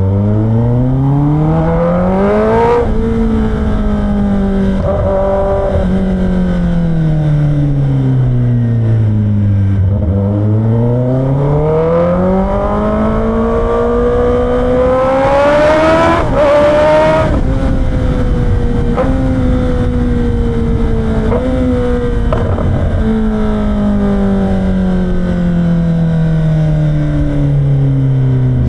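Kawasaki ZX-10R's inline-four engine, its catalytic converter and stock exhaust removed, running under way with the revs rising and falling. The revs climb briefly, sink, then build to a high peak about two-thirds of the way through before falling away, with three short blips of revs on the way down.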